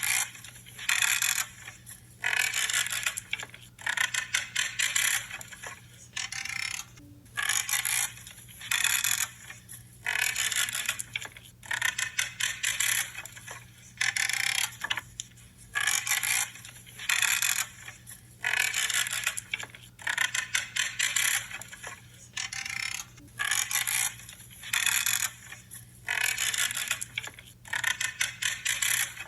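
Pruning shears cutting through branches again and again, each cut a short creaking, crackling snip, about one a second with brief pauses between.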